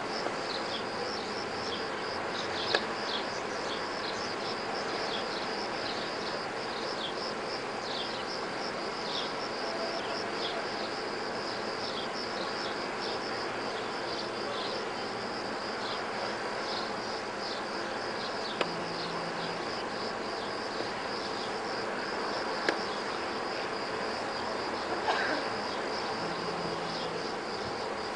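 A steady chorus of insects chirping in rapid, repeated high-pitched pulses, over a background hiss, broken by a few sharp clicks.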